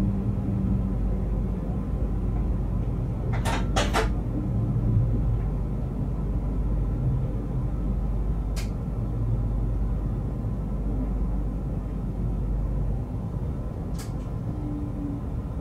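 Steady low rumble of a train rolling slowly along a station platform, heard inside the driver's cab. A quick group of three sharp clicks comes about three and a half seconds in, and single clicks follow near the middle and near the end.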